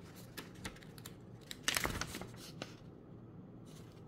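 Paper rustling and crinkling from the fan's instruction booklet being handled and its pages turned: a run of light crackles with a louder flurry a little under two seconds in.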